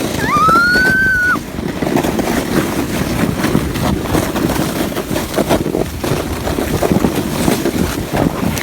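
A sled sliding over snow with a steady rushing, scraping noise. It opens with a child's high squeal that rises and holds for about the first second and a half.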